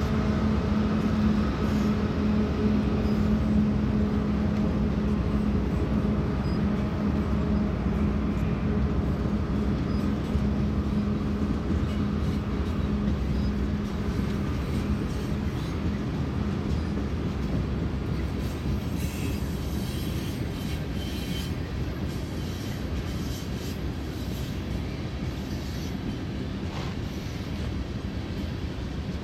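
BNSF mixed freight train's autoracks and tank cars rolling past: a steady rumble of steel wheels on rail that slowly eases in level. A low steady hum fades out about halfway through, and faint high squeaks and clicks come near two-thirds of the way in.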